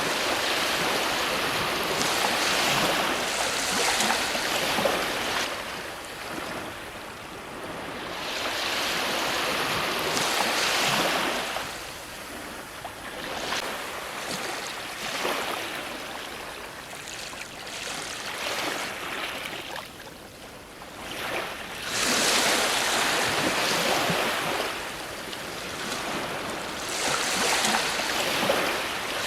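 Ocean waves breaking on a shore, a steady wash of surf that swells and eases every several seconds, with quieter stretches in between.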